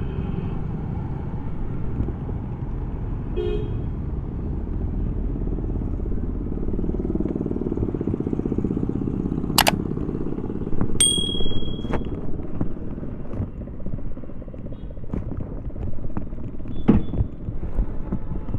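Royal Enfield Bullet 350X's single-cylinder four-stroke engine running through its stock exhaust while riding, a steady low thump and rumble. About halfway there is a sharp click, then a short high-pitched beep a second later.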